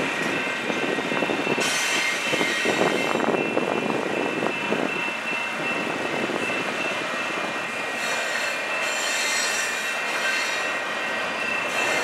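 Canadian Pacific double-stack intermodal freight cars rolling past a grade crossing: wheels rumbling and clattering over the rails, heaviest in the first few seconds, with a steady high-pitched wheel squeal.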